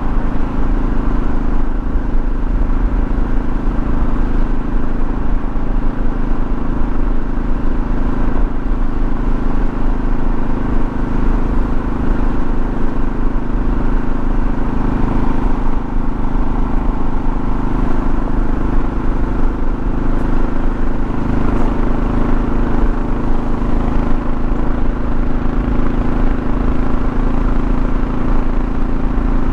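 2024 Kawasaki KLR650's single-cylinder engine running at a steady cruise, with road and wind noise.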